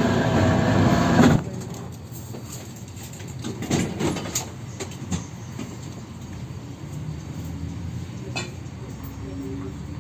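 Inside a 71-608KM tram: a loud noise with a steady hum in it cuts off suddenly about a second and a half in. It gives way to the quieter running rumble of the car, with scattered clicks and knocks and a faint motor hum.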